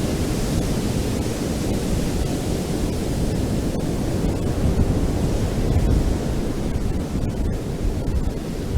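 Ocean surf on a beach: a steady, unbroken wash of waves, heaviest in the low end.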